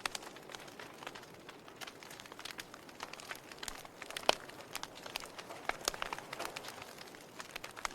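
Burning logs crackling: irregular sharp pops and snaps over a soft steady hiss of flame, with one louder snap about four seconds in.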